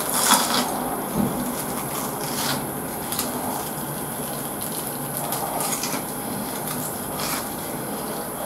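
Close-miked biting and chewing of a breaded, deep-fried jumbo shrimp, with irregular crisp crunches of the fried coating, the loudest just after the start.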